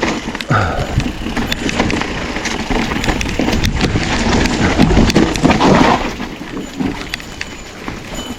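Mountain bike riding down a wet, muddy trail: tyre and ground noise with a steady run of clicks and knocks from the bike rattling over rough ground, loudest a little past the middle and easing near the end.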